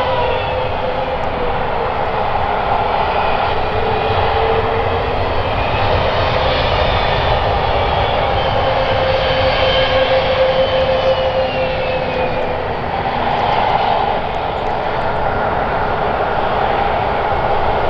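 Airbus A320neo-family airliner's turbofan engines running, a loud steady rush with whining tones that slowly shift in pitch as the aircraft moves past.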